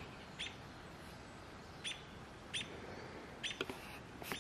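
A bird's short, high chirps, about five single notes at irregular gaps, over a faint steady outdoor hiss.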